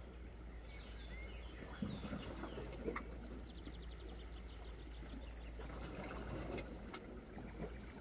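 Small birds chirping and calling, with a rapid trill about four seconds in, over a steady low rumble.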